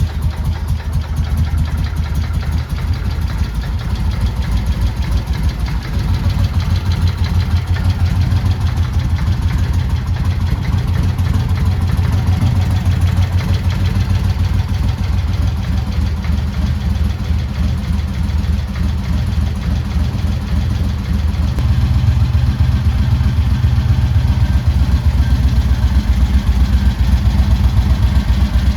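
2002 Moto Guzzi California Stone's air-cooled transverse V-twin idling just after being started, with a steady, even pulse. The idle steps up a little about six seconds in and again about twenty-one seconds in.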